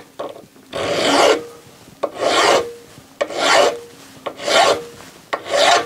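Hand file rasping across a small part in five slow, even strokes, about one a second.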